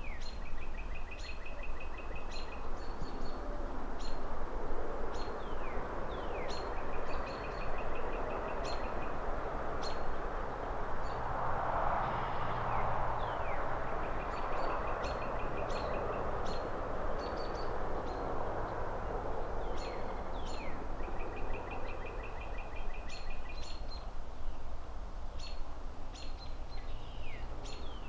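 City ambience: a steady low traffic rumble and a rushing noise that swells in the middle and fades again, with small birds chirping over it, repeated short chirps and a quick trill now and then.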